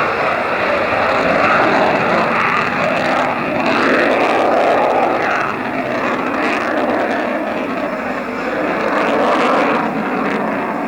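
Engine noise of a fixed-wing aircraft flying a display, a steady rushing noise whose tone shifts and swells a few times as the plane moves.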